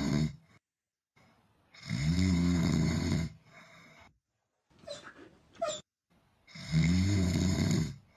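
An animal snoring: two long, loud snores about five seconds apart, each rising and falling in pitch over a rasp, with softer snuffles between them.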